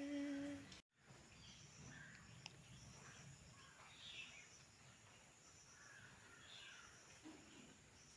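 Faint background with a few scattered, distant bird chirps. It opens with a short held voice that cuts off abruptly less than a second in.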